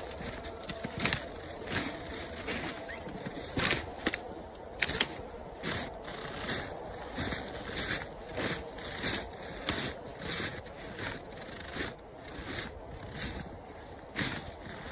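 Footsteps with a scraping crunch, one step about every half second to second, walking at an even pace.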